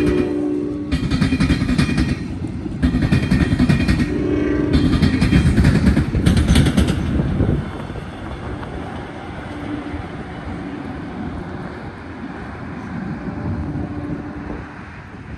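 Passenger train passing close by. A horn blast ends about a second in, then loud rumbling and wheel clatter drops away about halfway through as the locomotive at the rear goes past and pulls away. The rest is a lower, steady rumble with wind on the microphone.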